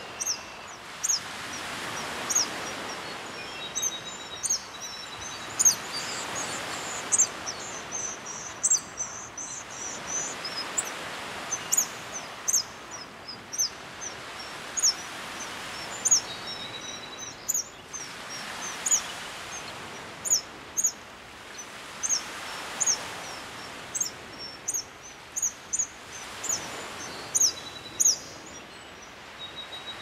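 Small birds chirping, with many short high chirps coming in quick runs throughout, over a steady outdoor rush that swells and fades every three to four seconds.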